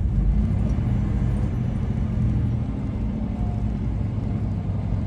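Steady low rumble of a truck engine running.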